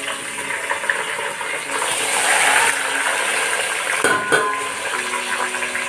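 Marinated chicken pieces sliding into hot oil and fried onions in a metal pot, sizzling as they hit, strongest about two seconds in. A sharp knock against the pot about four seconds in.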